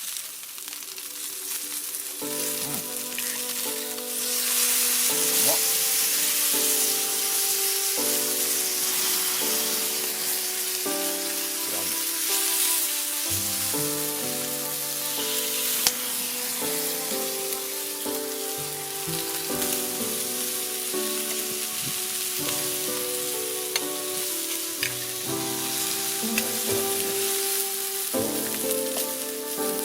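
Food sizzling in a pan, a steady hiss with an occasional sharp pop. Background music with slow sustained chords comes in about two seconds in.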